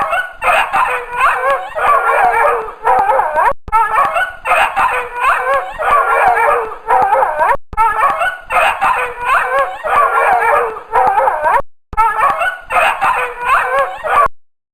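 Many animals calling at once: a loud, dense chorus of overlapping high, wavering calls, in four stretches of about four seconds each, with short breaks between them.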